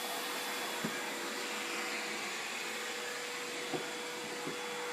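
Vacuum cleaner running steadily as it sucks up floor dust through its hose, with a constant hum tone under the airflow noise and a couple of faint clicks.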